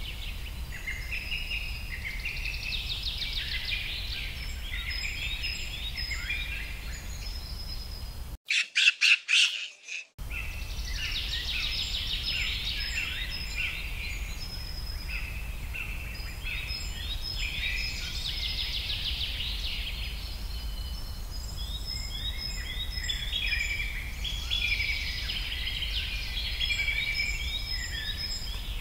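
Several small songbirds chirping and twittering in quick varied phrases over a steady low background hum. About eight seconds in the sound drops out for nearly two seconds, broken by a short cluster of loud, sharp clicks.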